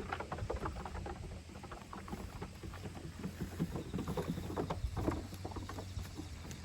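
Young goats moving about, making many small irregular taps and scuffs, likely from their hooves and bodies, over a steady low background hum.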